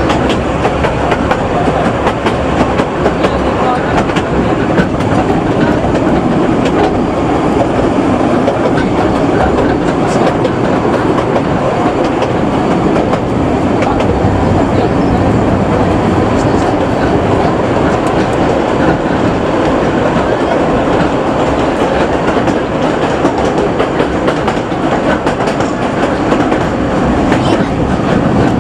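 Kurobe Gorge Railway narrow-gauge trolley train running along the track: a steady, loud running noise of wheels on rail, with scattered clicks.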